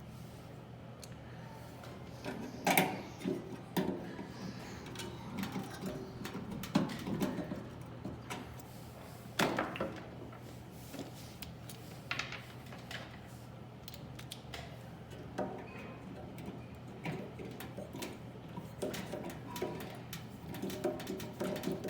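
Scattered clicks, taps and knocks of hand tools and screws on metal as the microwave's magnetron mounting screws are driven in and tightened, over a steady low hum.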